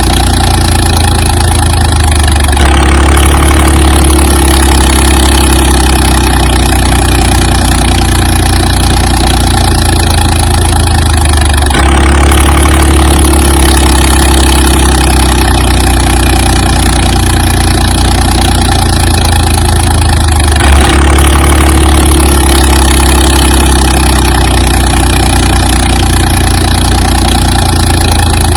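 Loud, steady engine idling sound effect, played as a loop that repeats about every nine seconds.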